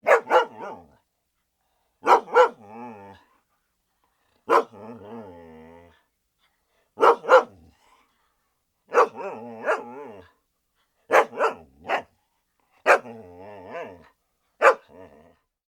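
A dog barking in eight short bursts, about one every two seconds: each is a quick pair of sharp barks that trails off into a lower, wavering growl.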